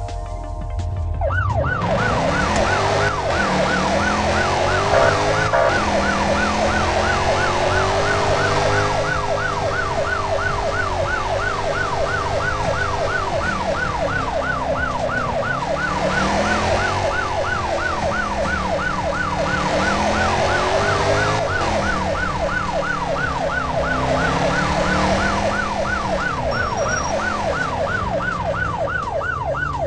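A siren-like yelping tone that rises and falls rapidly and evenly, several times a second, starting about a second and a half in. Under it are slower, lower wavering tones and a low rumble.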